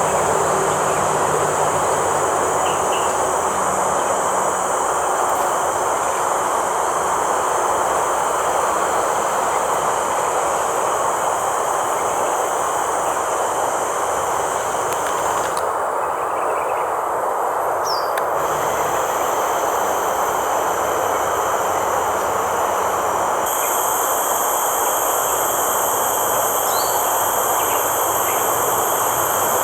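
Steady, shrill insect buzzing in high bands over a constant loud rushing noise, with a couple of faint, brief bird chirps.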